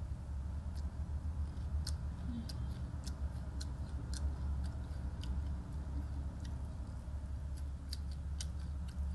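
A person chewing crunchy food, rice with crispy fried tempeh (kering tempe) and melinjo crackers, with sharp crisp clicks about twice a second. A steady low hum runs underneath.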